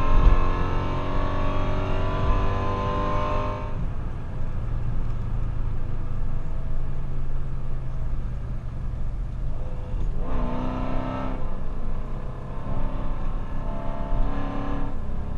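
Modified 5.7 L Hemi V8 of a Dodge Charger R/T, with a stage 2 cam and long-tube headers, running under way with a deep exhaust rumble. The engine note changes pitch in the first few seconds and again briefly around ten seconds in.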